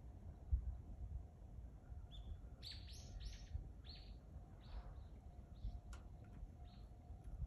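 A small bird chirping a string of short, high notes: a quick cluster about three seconds in, then single chirps about once a second, over a low background rumble.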